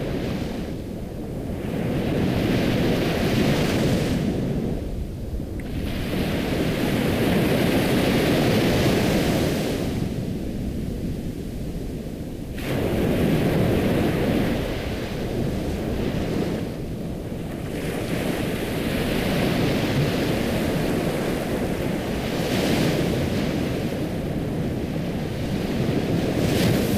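Ocean waves breaking and washing ashore, the surf swelling and falling away every three to five seconds.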